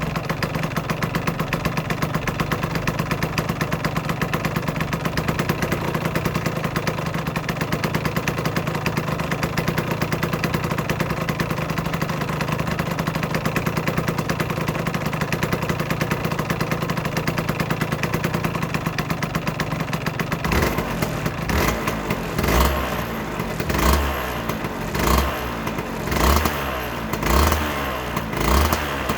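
Aprilia RS125's single-cylinder two-stroke engine idling steadily, then revved in short throttle blips, about one a second, through the last third.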